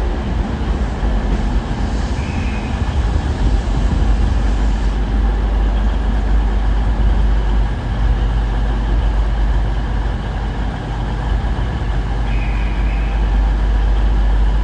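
Train at a station running with a steady, heavy low rumble. Two short high beeps sound over it, about two seconds in and again near the end.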